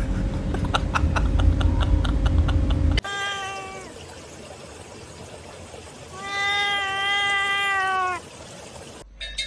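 A cat meowing twice: a short meow that falls in pitch about three seconds in, then a long drawn-out meow about six seconds in. Before the meows, a loud low rumble with a quick run of clicks cuts off suddenly.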